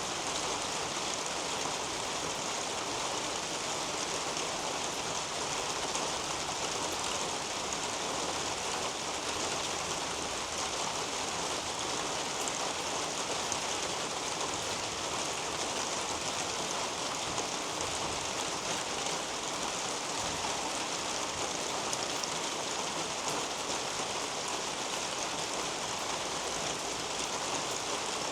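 Steady rain falling on garden leaves and foliage, an even hiss with faint scattered drop ticks.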